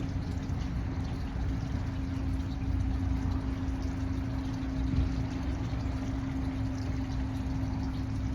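A steady low mechanical hum with one constant tone held throughout, like a motor or engine running.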